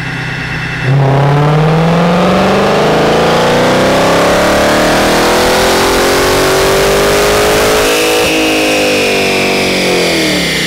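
Supercharged Dodge Challenger SRT V8 making a full-throttle pull on a chassis dyno. The engine jumps from idle about a second in and rises steadily in pitch for about seven seconds, then lifts off and winds down with a falling supercharger whine.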